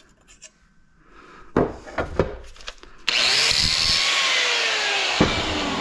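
A few knocks as metal parts are handled. About three seconds in, a power tool suddenly starts cutting into metal with a steady, loud, gritty noise, its pitch slowly sinking as it bites in.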